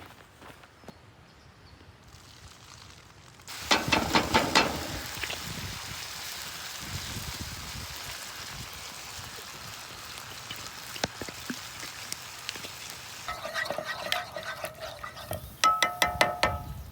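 Food sizzling in a hot pan over a campfire: the sizzle starts suddenly with a clatter about three and a half seconds in and then goes on steadily. Near the end, metal clanks and rings against the pan several times.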